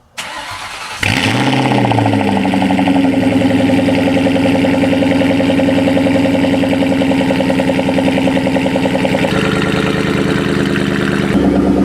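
Ford Mustang Cobra V8 starting up: a second of cranking, then it catches about a second in with a rev flare and settles into a loud, steady idle.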